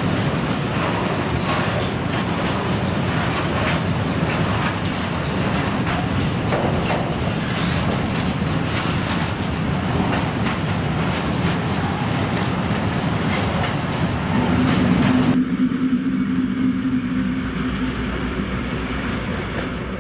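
PKP Cargo ET22 electric locomotive and its loaded coal wagons passing close by, wheels rumbling and clattering over the rail joints. About three-quarters of the way through the sound changes abruptly to a steady low hum with little treble.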